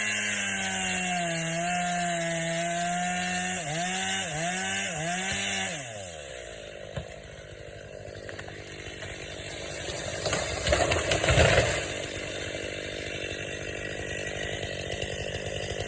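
Two-stroke chainsaw running at high revs, its pitch dipping three times under load, then winding down to idle about six seconds in. A louder burst of noise follows near the twelve-second mark.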